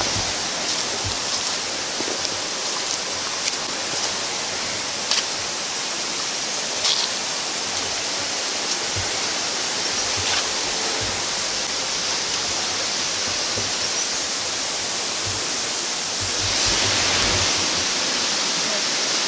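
Steady rush of fast-flowing river water, swelling a little near the end, with a few faint knocks.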